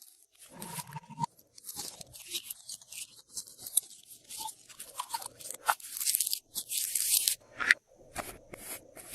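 Glossy slime being worked and mixed by hand, with irregular bursts of crunchy crackling and sticky clicks that are loudest about two thirds of the way through.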